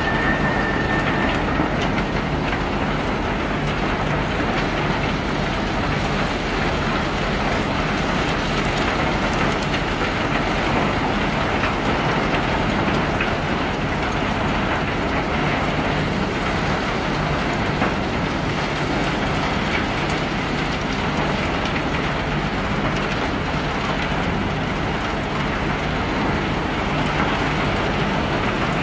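Self-unloading ship's conveyor machinery running steadily with a low hum, pebbles rattling and pattering continuously as they are discharged. A brief high squeal in the first second or so.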